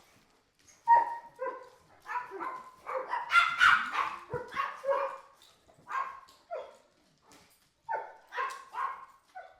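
A dog barking repeatedly in short, high-pitched barks and yips, coming fastest around the middle.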